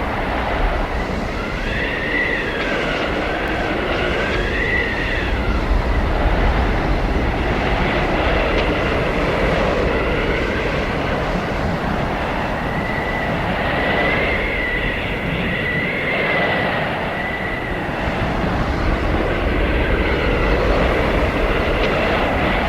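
Blizzard wind blowing hard and steadily, with a thin whistling tone that wavers up and down in two spells, one early and a longer one in the middle.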